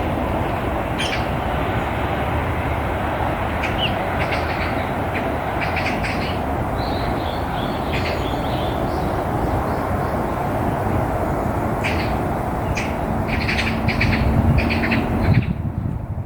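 Small birds chirping in short scattered calls over a steady low rush of road traffic.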